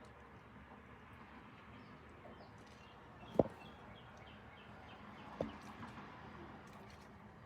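Two sharp knocks about two seconds apart, the first the louder, over faint bird chirps and a low outdoor background.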